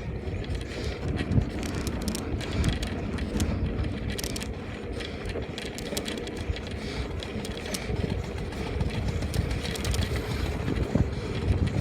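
Steady wind and road noise while riding a bicycle, heaviest in the low range, with frequent small clicks and rattles.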